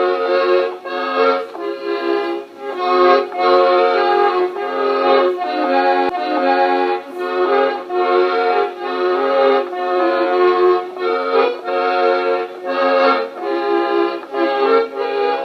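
Accordion playing a lively tune with a steady beat, chords and melody together. It comes from an old home tape played back slightly fast, so the pitch is a little high and there is no top end.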